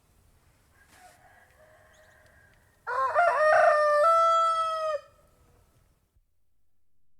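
Domestic rooster crowing: one loud crow about three seconds in, lasting about two seconds and dropping in pitch at its end, after a faint call before it.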